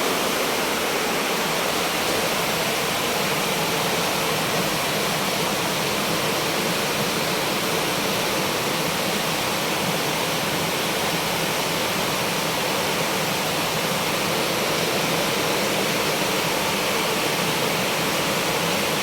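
Steady rush of water, even and unbroken, as of floodwater or heavy flowing water.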